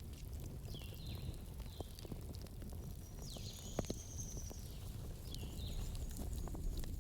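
Campfire crackling: scattered sharp pops and snaps over a low steady rumble. Several short high chirps sound over it, one longer call about halfway through.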